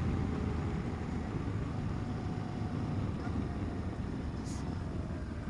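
Motorcycle running steadily while being ridden: a constant low rumble of engine and road, with some wind noise.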